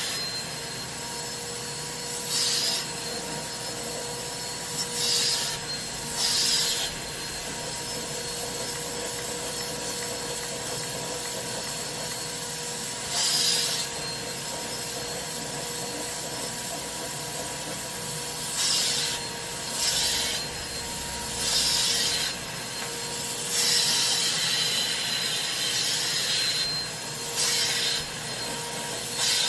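Carpet-cleaning extraction machine running with a steady whine, while its hand tool is worked over a stuffed animal in about ten short, irregular hissing strokes.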